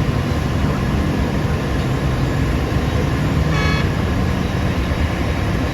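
Heavy diesel engine of a Hitachi 2500 mining excavator running steadily, a loud continuous rumble, with one short high-pitched tone about three and a half seconds in.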